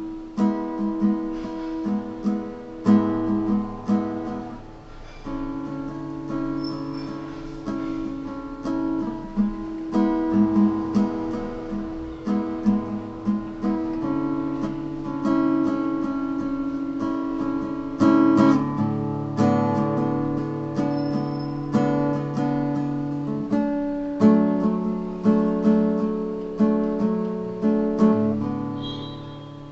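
A plucked string instrument played solo: picked notes and strummed chords that ring and fade, with the chord changing every few seconds.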